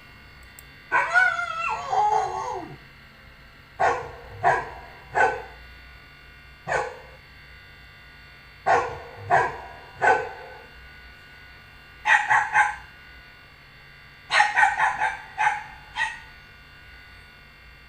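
Dog barking: a longer bark with a wavering pitch about a second in, then short barks in groups of two or three, and a quick run of barks near the end.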